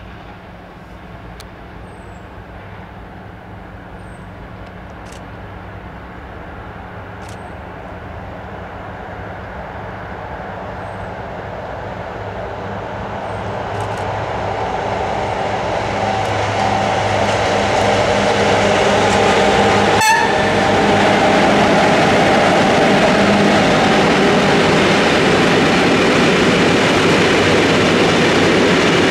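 Electric locomotive hauling a long freight train of open wagons, approaching and passing: the rumble of wheels on rails grows steadily louder over about twenty seconds and then holds, with one brief sharp click about two-thirds of the way through.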